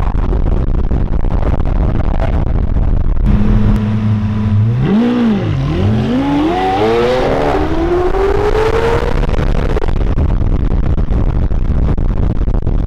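Supercar engines in slow convoy traffic over a steady low rumble. About three seconds in, one engine's steady note comes up, dips and jumps as it is blipped, then climbs in one long rising sweep as the car accelerates, fading out near ten seconds.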